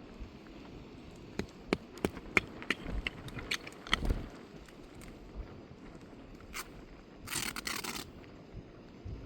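A run of sharp clicks and knocks over a couple of seconds, then a short scrape near the end: objects being handled and scraped.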